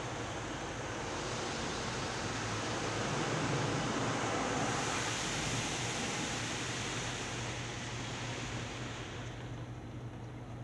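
Automatic car wash running over the car, heard from inside the cabin: a steady rushing noise over a low hum. The rush swells about halfway through, then eases off near the end.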